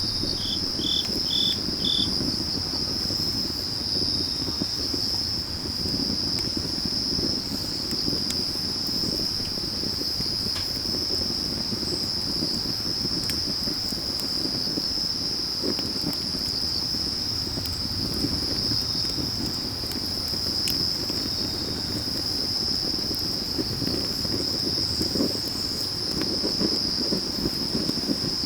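Crickets trilling without a break at one high steady pitch, over firewood burning with a low crackle and a few sharp pops. Four short high chirps sound in quick succession in the first two seconds.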